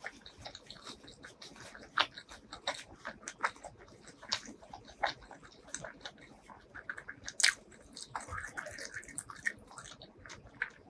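Close-miked eating: biting and chewing food, with irregular sharp crunching clicks and mouth sounds, the loudest bites about two seconds in and again about seven and a half seconds in.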